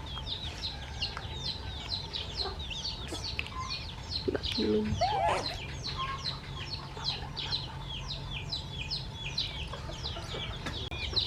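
Baby birds cheeping rapidly and without a break, short high downward-sliding peeps about four a second, begging to be fed. A brief lower call cuts in about halfway through.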